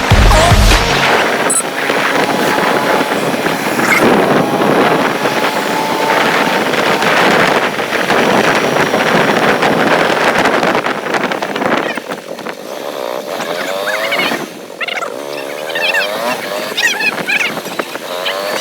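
Motorcycle running on the road, its engine mixed with heavy rushing noise; warbling chirp-like sounds come in near the end. Music cuts out about a second in.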